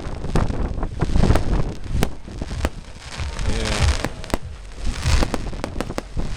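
A rapid, irregular series of sharp cracks and pops, with wind rumbling on the microphone.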